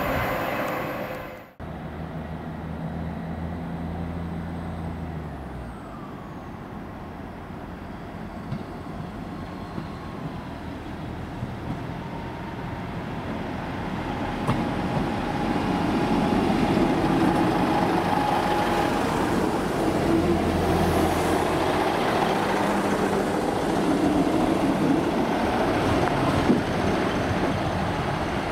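Trains at a main-line station. The sound cuts off abruptly about a second and a half in, followed by a few seconds of low engine hum. Then the rumble of a train approaching and running through builds from about halfway and stays loud to the end.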